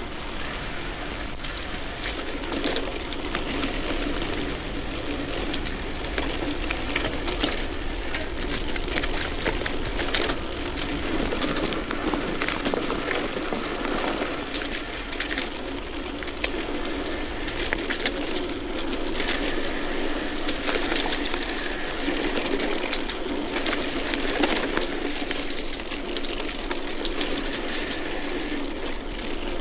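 Steady rolling noise of a vintage steel bicycle being ridden along a road, with frequent small clicks and rattles throughout.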